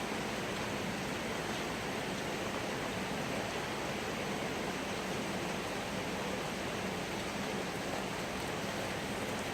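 Steady hiss of falling rain, even and unchanging throughout.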